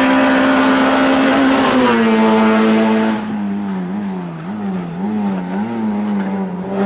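Race car engine running hard at a steady high pitch, which steps down about two seconds in. From about three seconds it is a little quieter and its pitch wavers up and down over and over as the revs rise and fall.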